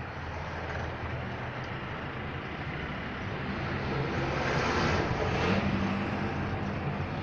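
Steady rumble of a moving vehicle, a low hum under a noisy wash, swelling a little about four to five seconds in.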